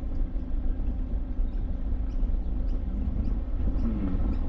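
Car driving slowly, a steady low engine and road rumble heard from inside the cabin.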